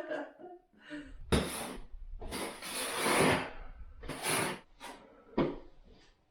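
A person laughing in several breathy bursts, with no pitch to the voice.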